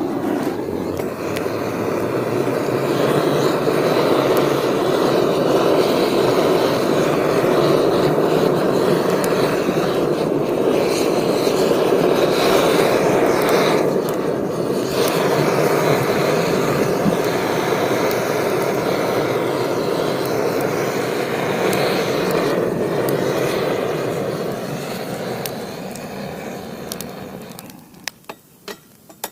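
Handheld butane gas torch firing a steady rushing jet of flame into firewood to light it. It starts abruptly, then tapers off and stops near the end.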